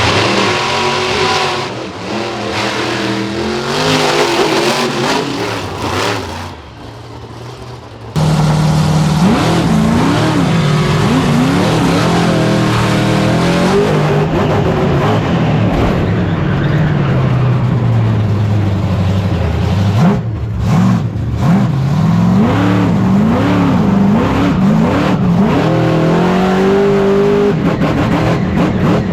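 Monster truck engine running loud and revving hard, its pitch climbing and falling again and again. About eight seconds in the sound jumps abruptly louder, and near the end it runs through quick rev bursts about one a second.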